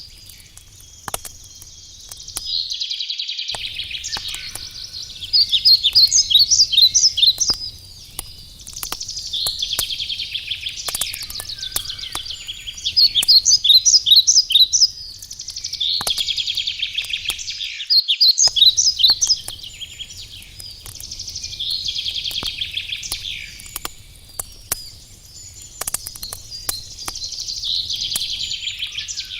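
Songbirds singing phrases of rapid, repeated notes every few seconds, over the scattered crackle and pops of a wood campfire.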